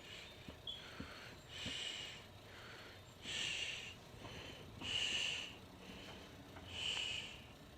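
A toothbrush stroked through a kitten's fur. It makes soft brushing swishes at an even pace, four louder strokes about every second and a half, with fainter ones in between.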